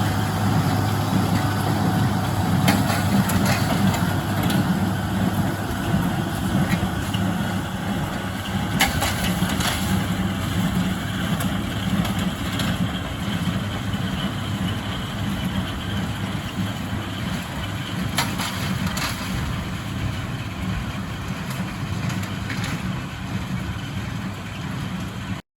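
International Harvester 886 tractor's diesel engine running steadily, with a few scattered sharp clicks and knocks; the sound cuts off abruptly near the end.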